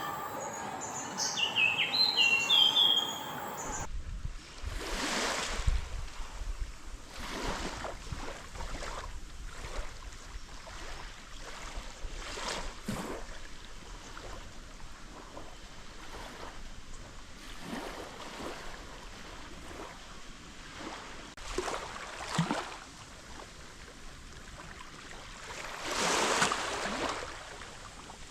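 Birds chirping for a few seconds, then a sudden change to a steady rushing noise like surf, swelling up every few seconds with the biggest swell near the end.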